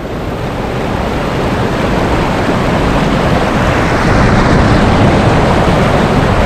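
Waterfall's rushing water, a loud, steady noise that gets louder about four seconds in.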